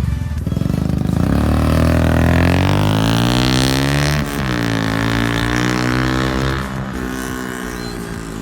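Yamaha FZS 150 cc single-cylinder engine running through a free-flow aftermarket exhaust under way, pitch climbing as it accelerates, a sharp break about four seconds in like a gear change, then climbing again before easing off near the end.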